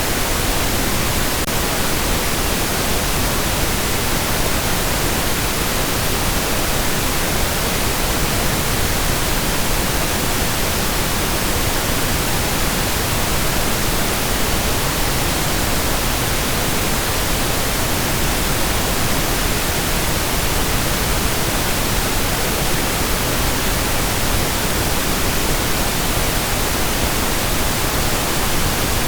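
Steady pink noise: an even, continuous hiss across all pitches, softer in the highs than white noise, with no change or events.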